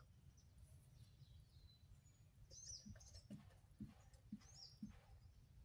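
Near silence, with a few faint bird chirps in the second half.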